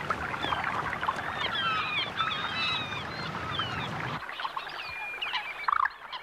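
Birds calling at a wetland: many short, quick chirps and twitters over a rushing, splashy hiss, which drops away about four seconds in.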